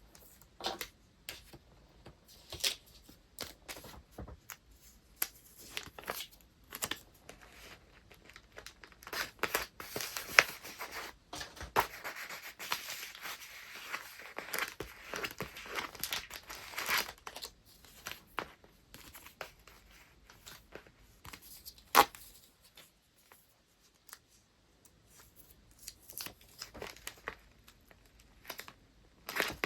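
Paper wrapping being handled close up: irregular rustling, crinkling and tearing, with scattered light taps. A denser run of rustling comes in the middle, and a single sharp click about two-thirds of the way through.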